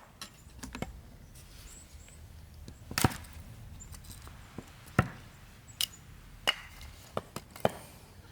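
Firewood being chopped or split, a series of sharp, irregularly spaced knocks with the loudest blows about three and five seconds in and a quick run of three near the end.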